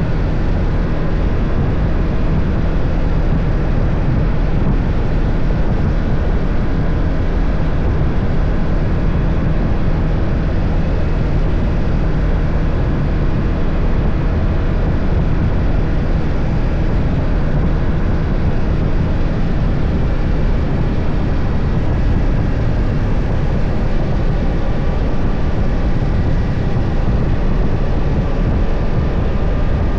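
BMW F 800 GS parallel-twin engine running at a steady cruise, with a constant rush of noise over it and no change in engine pitch.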